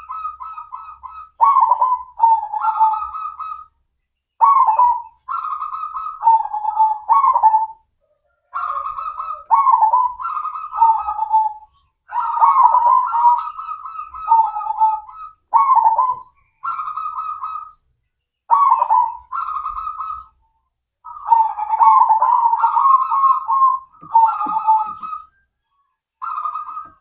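Zebra dove (perkutut) singing its cooing song: a string of phrases, each a quick run of soft pitched coos, repeated about a dozen times with short silent gaps between them. It is used as a lure recording to set young doves singing.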